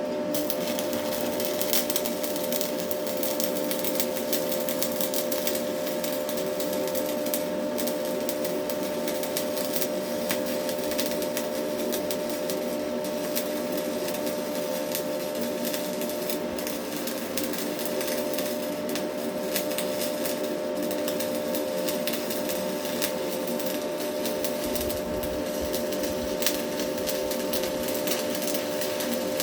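Stick welding with a Hilco 6013 rod: the arc crackles and sizzles steadily as one long bead is run, over a constant hum.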